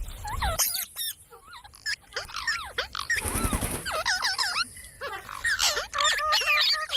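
Pet parrot calling and chattering: a quick run of squawks and chirps that swoop up and down in pitch, with one harsher, noisier screech a little past the middle.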